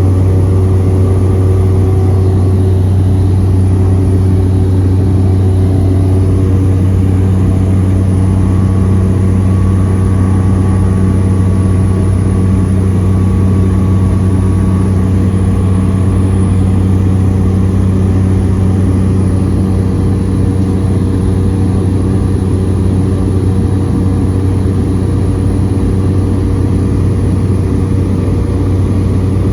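Cabin drone of a Cessna 208B Grand Caravan EX's single Pratt & Whitney PT6A-140 turboprop and propeller in flight, a steady, loud low hum with steady tones above it.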